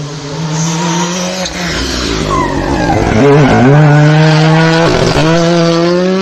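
Hill-climb race car engine running hard at high revs, with two brief dips in the note about three and five seconds in, the pitch climbing again after each.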